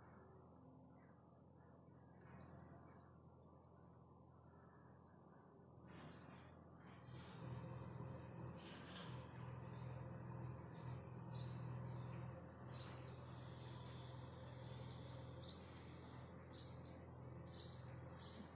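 Birds chirping: short, high, falling chirps that come about once a second and grow more frequent after the first few seconds. A faint low hum lies underneath.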